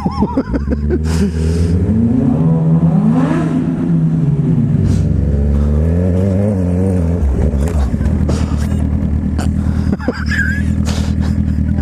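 Motorcycle engine revving up to a peak about three seconds in, winding back down, then running low and steady.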